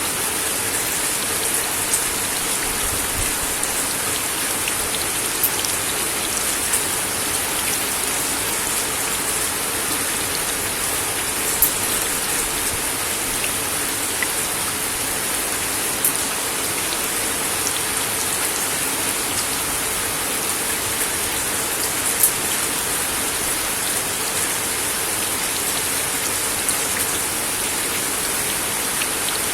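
Steady rain falling on a wooden deck, a dense, even hiss with a few sharper single drop hits standing out now and then.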